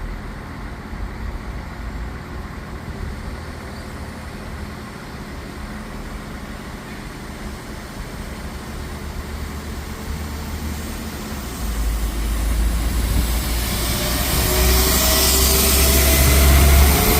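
A train approaching, with a steady low rumble that grows louder over the last few seconds, joined by rising hiss and a faint rising whine.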